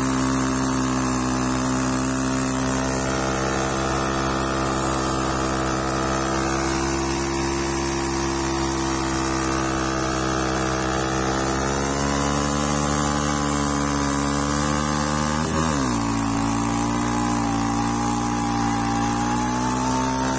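Cross motorcycle engine running at a steady speed. Its pitch shifts slightly about 12 seconds in, then dips sharply and comes back about three-quarters of the way through.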